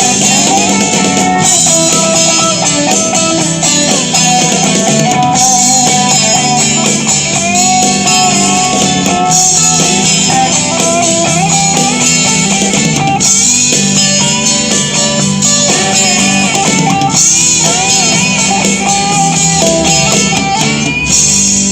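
Rock band playing an instrumental guitar passage with a steady beat: strummed guitar under a lead guitar melody, no singing.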